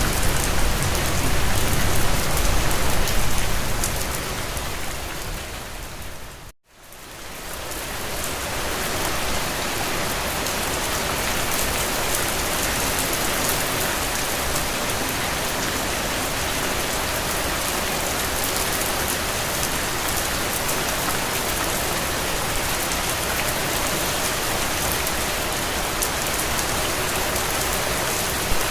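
Steady rain falling on a window, a dense even hiss of drops. It fades away to a moment of silence about six and a half seconds in, then swells back to the same steady level, with one sharp tick near the end.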